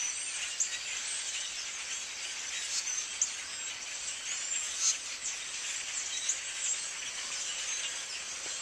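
A large flock of birds chirping together: a dense, continuous chatter of many short, high calls overlapping.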